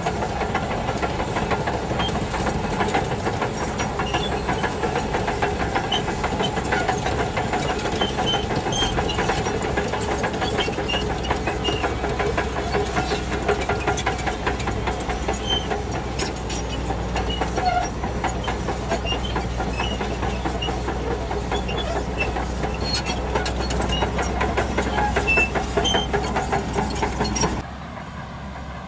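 Shantui DH17C2 bulldozer's diesel engine running steadily with a continuous clatter from its steel tracks. The sound drops suddenly and becomes quieter near the end.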